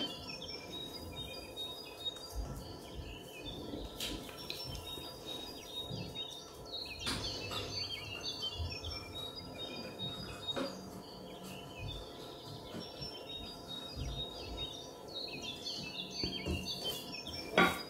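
Faint bird chirping over a low steady hum, with a few soft taps and knocks from handling food and dishes.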